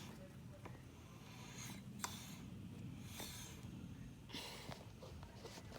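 Faint rustling and handling noise, with a few breath-like hisses and a sharp small click about two seconds in.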